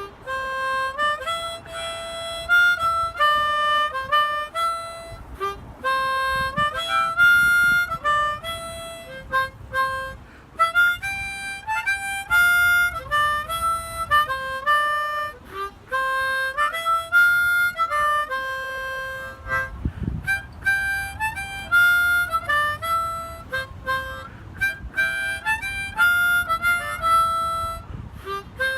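A harmonica playing a melody in held, stepping notes, often sounding two notes together.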